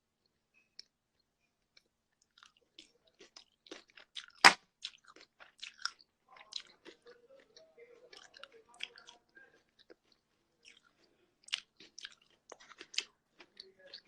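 Close-up chewing and crunching of food with wet mouth clicks, irregular and fairly quiet, with one sharper, louder click about four and a half seconds in.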